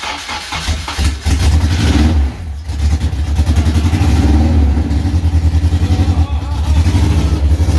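Honda K24 inline-four cranking on the starter, catching about a second in and running, its revs rising and falling a couple of times. It is the engine's first start after being swapped into the car.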